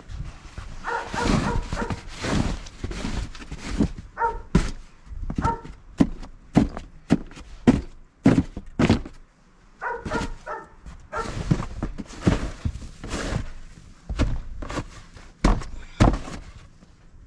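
Snow shovel working through heavy snow, with repeated scrapes and thunks about one or two a second. A dog barks in short runs three times.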